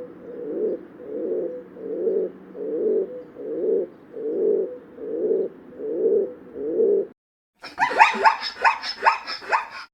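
An animal calling: a low call repeated about once every 0.7 seconds, then, after a brief pause near the end, a higher, quicker run of calls.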